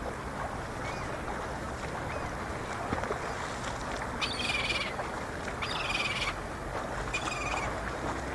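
Gulls calling three times, each call about half a second long, over a steady rushing background noise.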